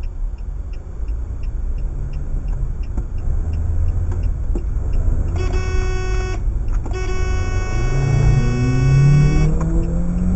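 Car road and engine rumble with a regular light ticking. About halfway through, a car horn sounds, first for about a second and then held for two or three seconds more. Near the end, an engine revs up, rising in pitch.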